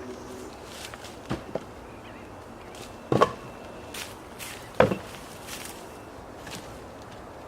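A few sharp knocks: two light ones near the start, then two louder ones about three and five seconds in.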